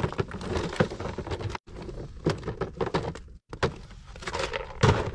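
Large lumps of coal being smashed into smaller pieces: a series of sharp cracking and knocking blows at irregular intervals.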